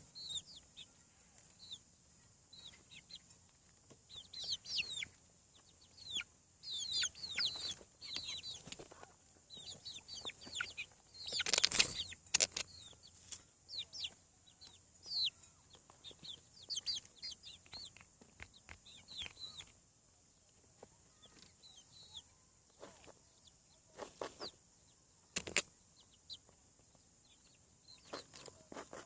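Young chickens, about seven weeks old, peeping and clucking in a steady scatter of short, high, falling chirps. A louder rustling burst comes about twelve seconds in, and a few sharp knocks come near the end.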